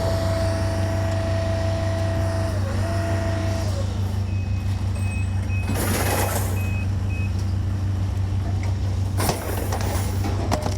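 A large diesel engine running steadily, with a reversing alarm beeping several times in the middle, and two sudden short noisy bursts.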